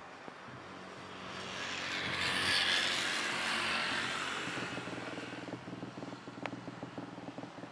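Jet airliner passing, its roar swelling to a peak about two to three seconds in and then slowly fading.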